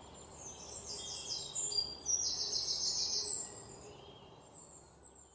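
Birds chirping in quick high trills, fading out near the end.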